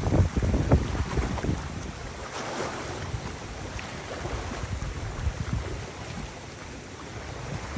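Gusty wind buffeting the microphone, with heavy rumbling gusts in the first second or so and then a steadier rushing hiss.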